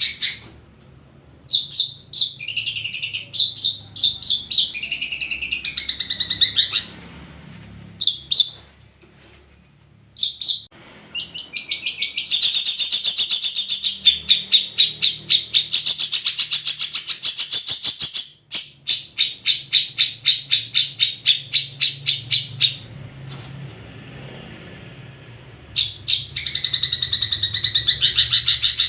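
Long-tailed shrikes (cendet) singing: loud bursts of fast, chattering song and long runs of rapidly repeated notes. The song breaks off briefly a few times, with the longest pauses about a third of the way in and again near the end.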